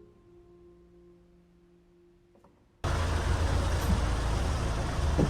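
Soft harp background music fading out, then about three seconds in a sudden cut to a loud, steady outdoor rumble with strong low-pitched buffeting, typical of wind on the microphone.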